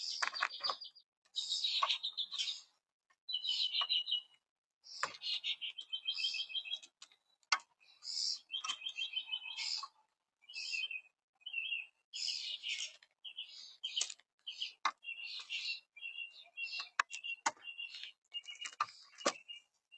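Young red-bellied woodpeckers calling in short bursts of rapid, high chattering notes, over and over, with a few sharp clicks in between.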